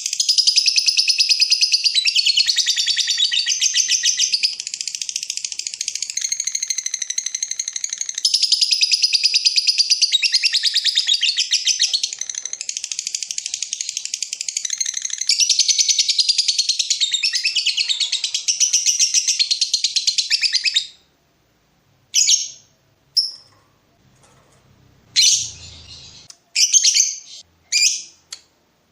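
Lovebird singing a long, rapid chattering trill (the 'ngekek panjang') for about twenty seconds, then stopping abruptly and giving a few short separate chirps.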